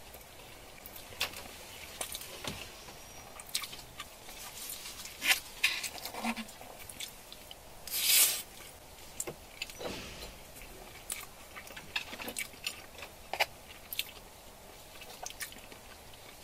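Eating sounds: scattered small clicks and taps of utensils and food, with two louder short rustles about five and eight seconds in.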